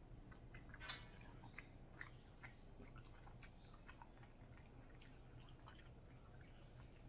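Faint wet chewing and mouth clicks of someone eating snow crab meat, with one sharper click about a second in.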